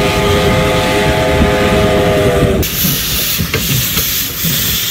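A train whistle sounds a steady chord of several tones over the loud rumble of the train, cutting off abruptly about two and a half seconds in. The train's hiss and running rumble carry on after it, with faint clicks.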